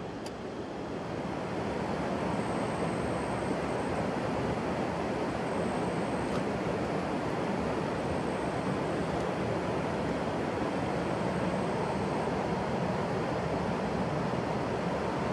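Steady rushing noise that swells slightly in the first two seconds, with a faint high-pitched tone coming and going four times.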